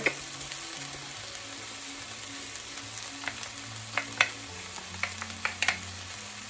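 Ground beef and vegetables sizzling steadily in a stir-fry pan over medium-high heat, with a few sharp clicks and taps from the spoon and a spice container as minced garlic and ginger are added, mostly in the second half.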